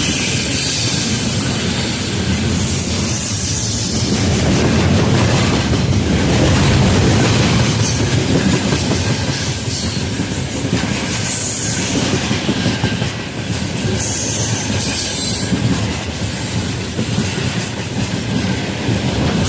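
A moving train: steady rumble and hiss of the wagons with the wheels clattering over rail joints, the knocks coming thicker in the second half, and brief high wheel squeals now and then.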